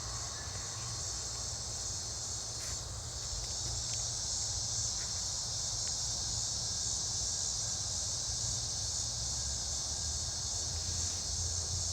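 Insect chorus, a steady high-pitched trill, over a faint low rumble.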